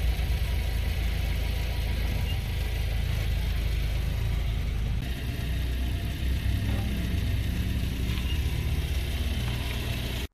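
Volkswagen car's engine idling steadily, with a low rumble, the car barely moving. The sound shifts slightly about five seconds in.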